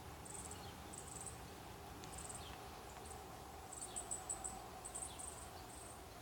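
Steady low hum of a honeybee colony in an open hive, with short bursts of high-pitched insect chirping repeating over it, busiest about four seconds in.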